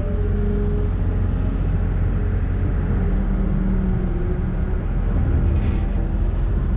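An engine running steadily, a low rumble with a few faint tones above it.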